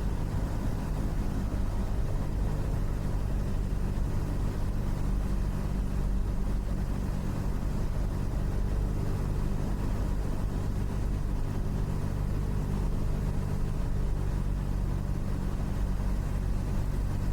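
Cessna 172's piston engine and propeller droning steadily in the cockpit, at the reduced power of a gliding approach to landing.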